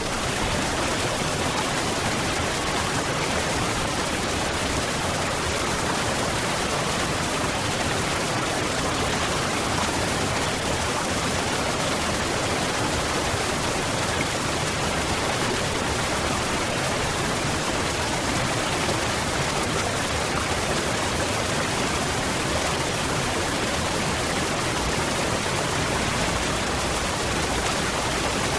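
Waterfall: a constant rush of falling water, even and unchanging.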